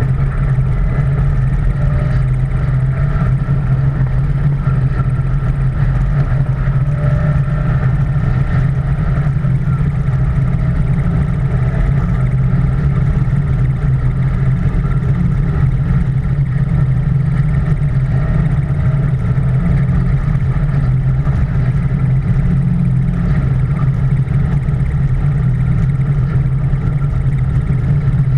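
Ford F-150 SVT Raptor pickup truck driving steadily at speed on a dirt road, with a constant loud engine and road noise and no marked revving or breaks.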